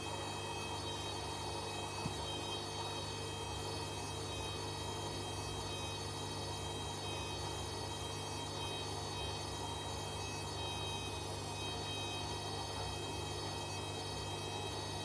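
Hoover H-Wash 300 washing machine running with a steady hum made of several tones, and one sharp click about two seconds in.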